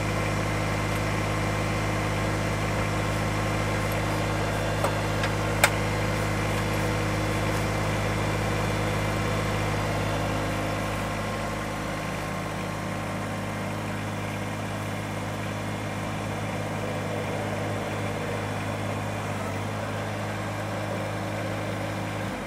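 Kubota BX compact tractor's three-cylinder diesel engine running steadily, with a sharp metallic click a little over five seconds in; the engine note drops slightly about eleven seconds in.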